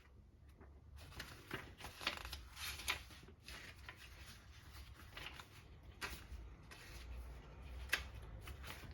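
Paper being leafed through by hand: a run of light, crisp flicks and rustles, starting about a second in.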